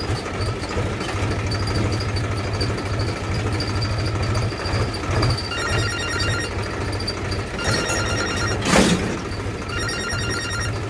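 A small engine runs with a steady low pulsing. From about halfway through, a mobile phone ringtone chimes in repeated bursts, and a brief swoosh comes near the end.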